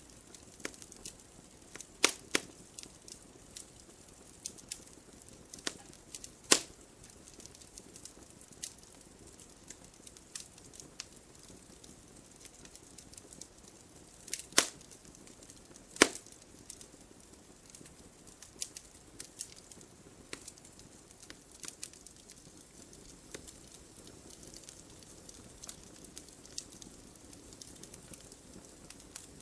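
Wood fire burning in a fireplace: burning logs crackling with irregular sharp pops over a soft hiss, a few pops much louder than the rest.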